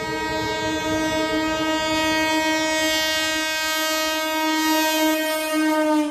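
Indian Railways electric locomotive's horn held in one long blast over the rumble of an approaching express train. Near the end the horn drops slightly in pitch and suddenly gets quieter as the train passes.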